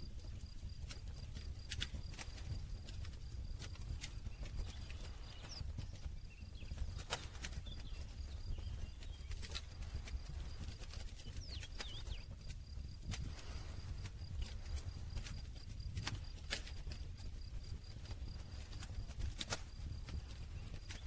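Campfire burning, with a steady low rumble of flames and irregular sharp crackles and pops of burning wood.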